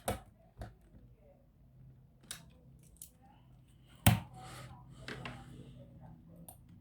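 Clicks and knocks of small plastic and metal laptop parts and tools being handled, with one sharp, loud knock about four seconds in followed by a brief scraping rustle.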